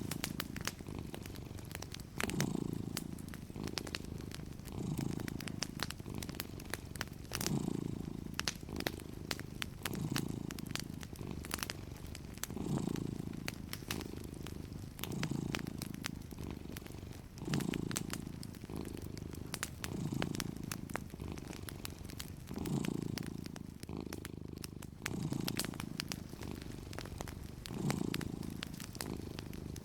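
Cat purring steadily, swelling and fading about every two and a half seconds as it breathes in and out. A fireplace crackles through it with small sharp pops.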